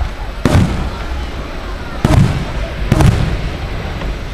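Aerial firework shells bursting: three sharp bangs, about half a second, two seconds and three seconds in, each echoing away.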